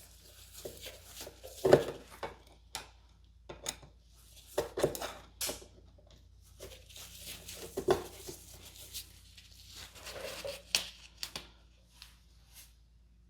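Irregular handling noises: short rustles, scrapes and sharp clicks of hands, tools and parts being worked, with no steady running sound.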